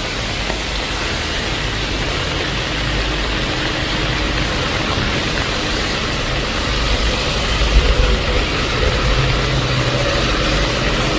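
Heavy rain falling steadily, with a motor vehicle engine idling under it, its low rumble growing stronger about seven seconds in.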